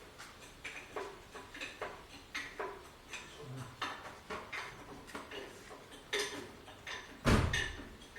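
Metal hand tools and sockets clinking against each other, a string of irregular sharp metallic clicks, with one louder, heavier knock about seven seconds in.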